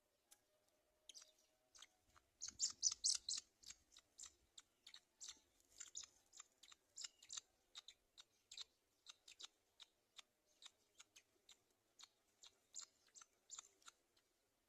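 Faint, irregular wet clicking and tearing sounds of a black-winged kite's bill ripping at fresh meat at the nest, with a quick, louder run of clicks about two and a half seconds in.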